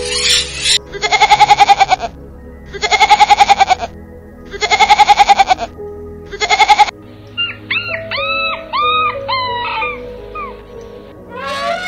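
Goat bleating four times, each bleat long and quavering, about two seconds apart. Near the end a dog gives a run of short high whining calls, over background music.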